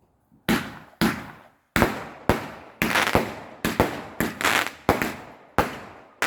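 Fireworks going off: a rapid, uneven run of about a dozen loud, sharp bangs, each dying away in a short echoing tail.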